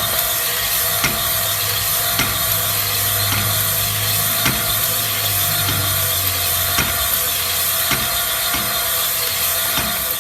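A workshop power tool or machine running steadily, with a light knock about once a second.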